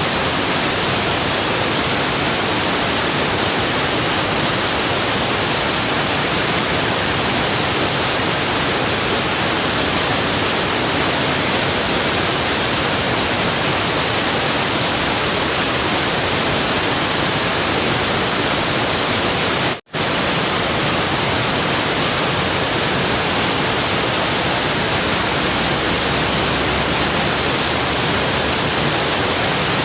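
Steady rushing water of a waterfall, a dense even hiss with no change in level, cutting out to silence for a split second about two-thirds of the way through.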